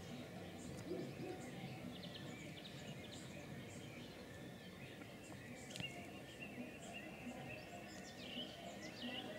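Faint birdsong: many short, scattered chirps and whistles from small birds over a steady low background rumble.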